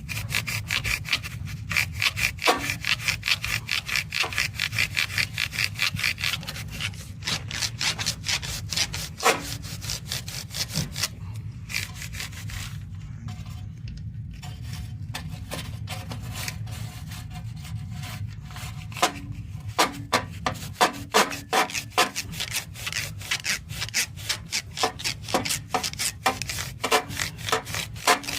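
Rapid repeated scraping strokes as soot and debris are cleaned out of an oil burner's combustion chamber, easing off for a few seconds near the middle. A steady low hum runs underneath.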